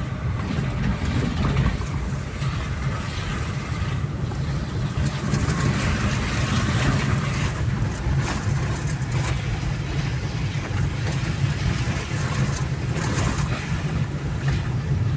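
Vehicle driving on a wet dirt road, a steady low engine and road rumble heard from inside the cab, with a few brief knocks about thirteen seconds in.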